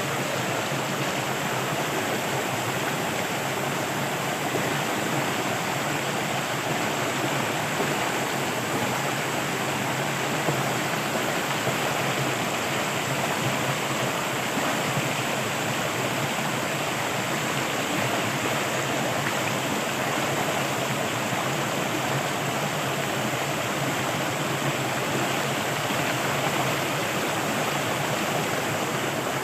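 Flowing water rushing steadily, like a stream or irrigation channel, an even hiss with no changes.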